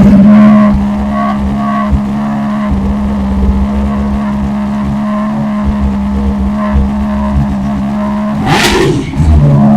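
BMW S1000RR inline-four motorcycle engine with an Akrapovic exhaust, just started. It runs high for a moment, settles within about a second into a steady idle, then revs up sharply near the end. It is very loud.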